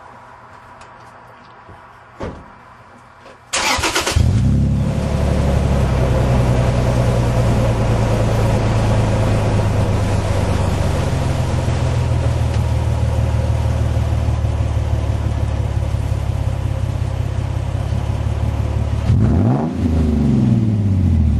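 2006 Toyota Tacoma's 4.0L V6 with JBA headers and a Magnaflow true dual exhaust cranking briefly and starting about three and a half seconds in, after a couple of small clicks, then idling steadily. Near the end it is revved once and drops back to idle.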